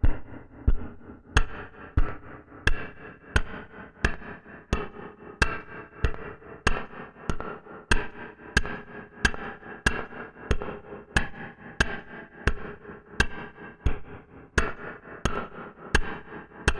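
Harsh electronic noise from a Gamechanger Audio Light Pedal optical spring reverb run through a pedal feedback loop: a steady pulse of sharp clicks, about one and a half a second, over a continuous buzzing drone.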